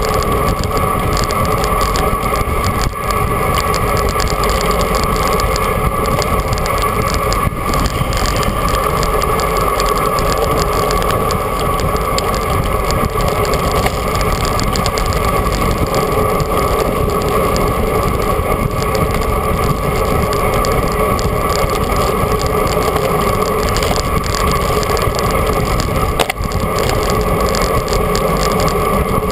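Steady rush of wind and road noise on a bicycle-mounted action camera riding at speed, with a constant droning whistle running through it.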